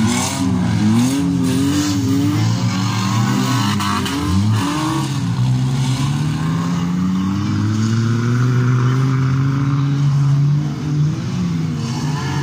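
Demolition derby cars' engines revving, the pitch swinging up and down as the cars accelerate and back off. In the second half one engine is held at steady high revs for several seconds before dropping.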